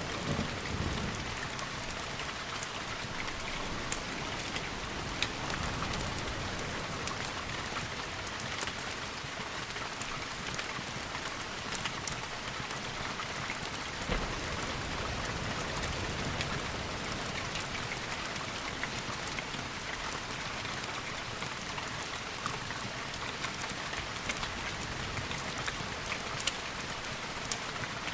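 Steady rain falling, with many scattered sharp drop-like ticks, as the tail of a low thunder rumble dies away in the first second.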